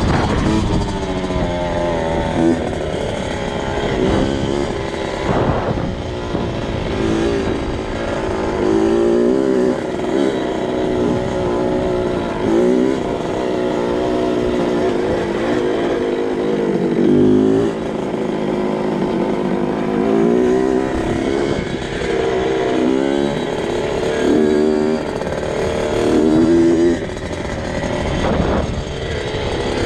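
2002 Kawasaki KX 65's 65cc single-cylinder two-stroke engine under way, its pitch climbing and dropping back again and again with throttle and gear changes.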